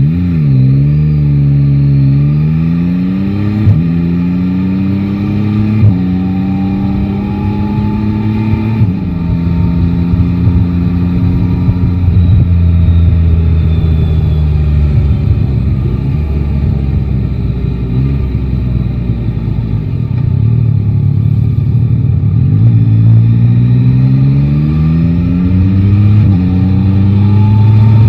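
Motorcycle's three-cylinder engine pulling away and accelerating through three upshifts, its pitch climbing and dropping at each shift. It then cruises with a slowly falling tone, eases off, and pulls up through the gears again near the end.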